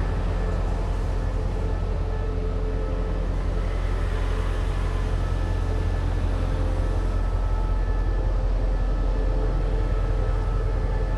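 Train running with a steady deep rumble and a few faint, steady whining tones above it.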